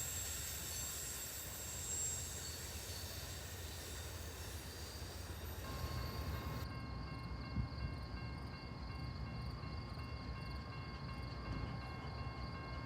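Railroad cars rolling along the rails, a steady low rumble with a faint high squeal in the first half. About halfway through, a set of steady high tones comes in.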